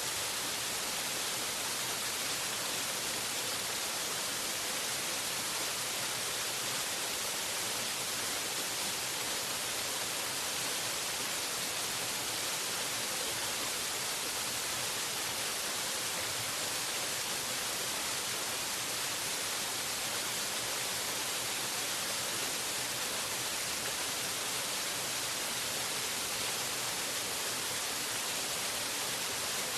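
Waterfall: a steady, unbroken rush of falling water, heavy on hiss and light on low rumble.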